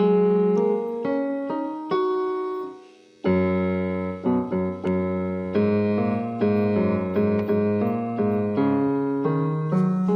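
Background piano music: a slow melody of struck notes over lower sustained notes, with a brief pause about three seconds in before a new chord.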